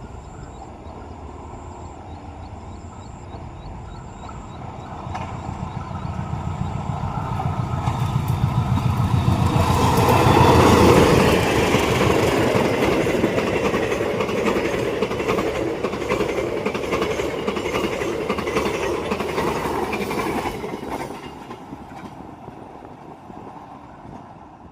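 A train passing close by: the rumble builds to a peak about ten seconds in, with fast clattering of wheels over the rail, holds, then fades away near the end.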